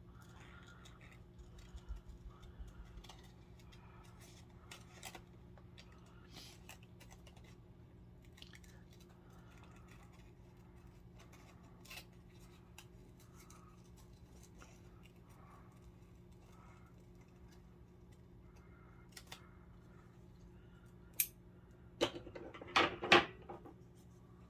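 Scissors snipping through paper in short, quiet cuts over a low steady hum, with a few louder sharp clicks and rustles near the end.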